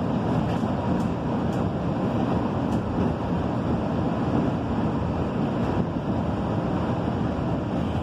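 Electric commuter train running along the track, heard from inside the carriage as a steady low rumble with a few faint clicks.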